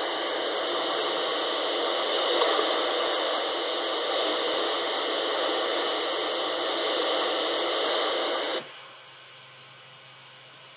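Radio hissing with loud, steady static, cut off suddenly a little over eight seconds in, leaving only a faint low hum.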